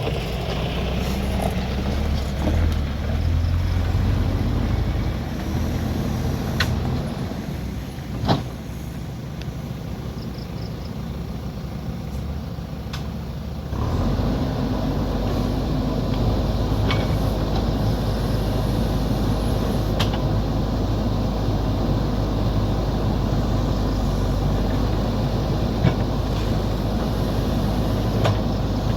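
Heavy earthmoving machine's diesel engine running steadily, stepping up to higher revs about fourteen seconds in, with a few sharp clanks along the way.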